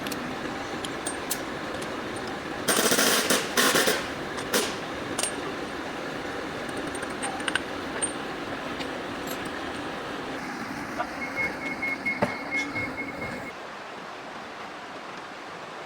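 Workshop sounds over a steady background hum. About three seconds in there is a loud burst of noise lasting about a second and a half, with scattered metal clinks. Near the end comes a short run of quick high beeps, after which the background hum drops.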